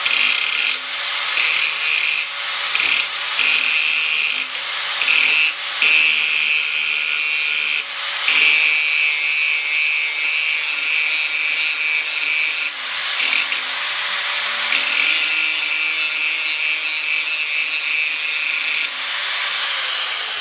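Power tool running and cutting or grinding into steel plate in repeated passes, the strokes short at first, then longer and unbroken. Near the end it is switched off and the motor winds down with a falling whine.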